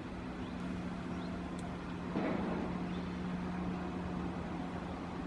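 Engine running with a steady low hum, with a brief louder rush of noise about two seconds in.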